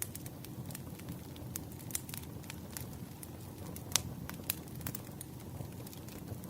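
Campfire burning: wood crackling and popping at irregular intervals over a steady low rumble of flame, with one sharper pop about four seconds in.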